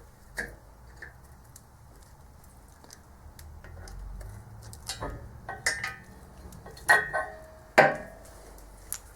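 Metal tools and engine parts clinking and knocking on a workbench, a scatter of small clicks with a few sharper metal knocks, the loudest two near the end.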